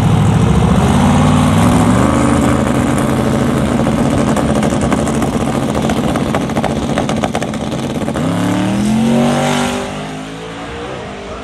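Drag-racing car's engine running loud at the starting line, revving with rapid crackling, then launching about eight seconds in with a climbing engine note that fades as the car pulls away down the track.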